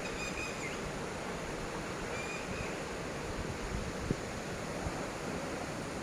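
Steady outdoor rushing noise of wind and water, with two short high chirps, one just after the start and another about two seconds in.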